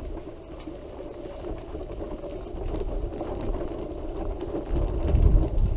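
Wheelchair rolling along a rough path: a steady, uneven rattle and rumble from the wheels and frame, with heavier low bumps getting louder near the end.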